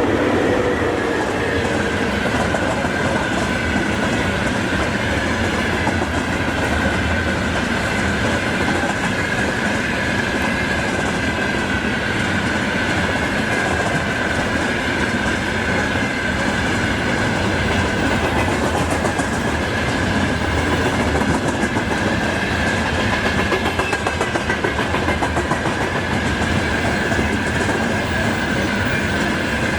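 Freight train wagons rolling steadily past, their wheels clattering over the rails, with a steady high-pitched ring running through.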